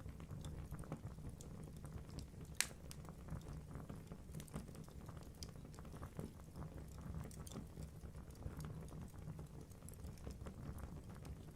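Wood fire burning in a fireplace: a steady low rumble of flames with irregular crackling from the logs, and one sharp loud pop about two and a half seconds in.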